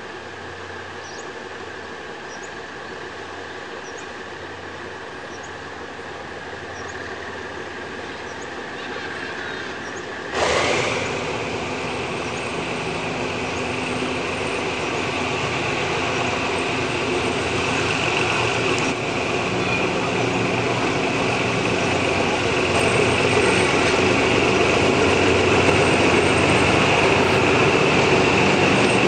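Train hauled by twin GE UM12C diesel-electric locomotives approaching, growing steadily louder. The sound jumps up suddenly about ten seconds in, and a high steady tone runs over the rumble of the train after that.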